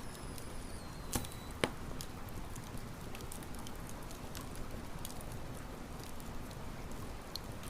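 Wood campfire crackling steadily, with many small ticks over a low rustle and two loud sharp pops about a second and a half in.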